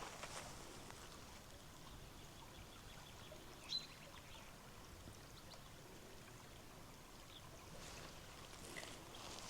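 Faint, steady rush of a shallow river flowing. About four seconds in there is one brief, sharp high-pitched note.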